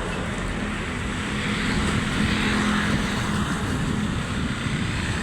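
Motor vehicle engine droning steadily under a wash of road noise.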